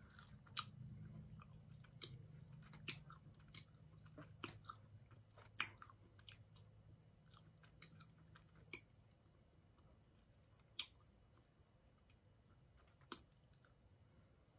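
Faint chewing and biting of a chewy cherry Airhead taffy candy, with scattered sharp mouth clicks.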